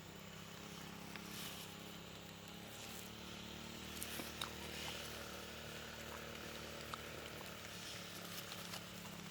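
Faint rustling of leaves and vine stems with a few small clicks and snaps as wild berries are picked by hand, over a low steady hum.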